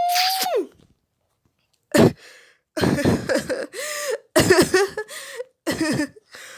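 A person's voice: a drawn-out vocal sound ends about half a second in. After a second's pause comes a string of coughs and throat-clearing sounds.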